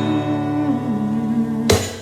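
Acoustic guitar chords ringing out at the end of a song, with one last strum about three-quarters of the way in.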